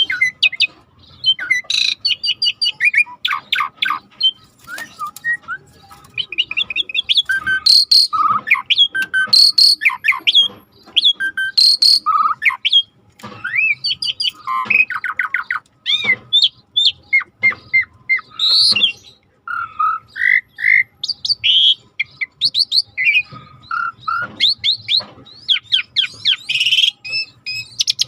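A starling singing a long, varied song of whistles, chirps, pitch glides and rapid trills, broken by short pauses.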